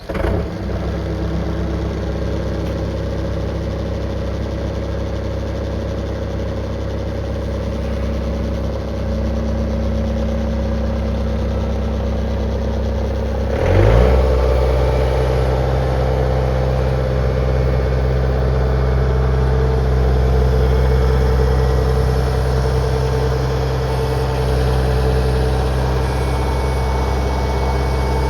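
Diesel engine of a 2006 Bobcat T300 compact track loader running just after start-up. About halfway through it changes speed with a short glide in pitch, then runs steadily and louder.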